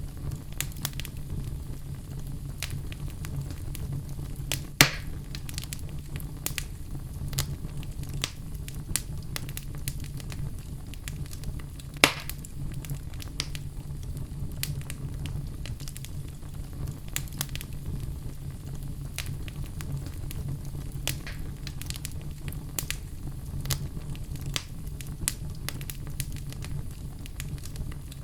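Burning wood logs crackling steadily over a low rumble of flame, with many small snaps and two louder pops, one about five seconds in and one about twelve seconds in.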